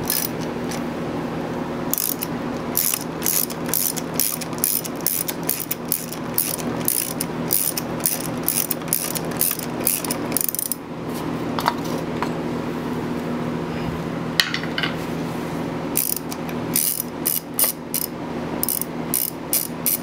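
Socket ratchet clicking in quick runs as a 12mm bolt holding the Suzuki Burgman 650's center stand is backed out. The clicking pauses for a few seconds past the middle. A steady low hum runs underneath.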